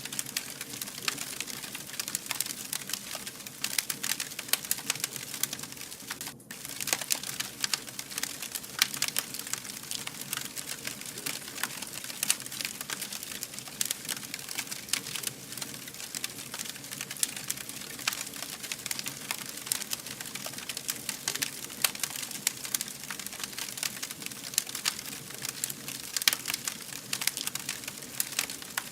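Wood fire burning, with dense, irregular crackling and popping over a steady hiss. The sound drops out briefly about six seconds in.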